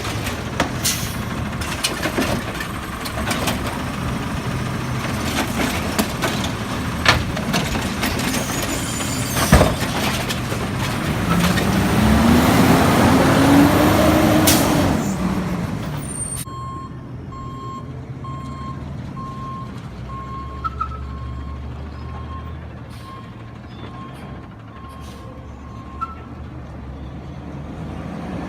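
Garbage truck running, with scattered clanks and its engine revving up and back down for a few seconds about halfway through. Then, after an abrupt change, the truck runs low and quiet while its backup alarm beeps about once a second.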